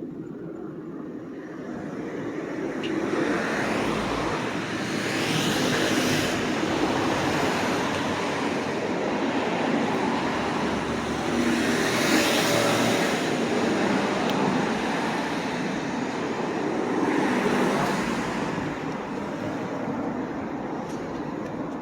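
Road traffic: cars passing one after another, the tyre and engine noise swelling and fading about three times.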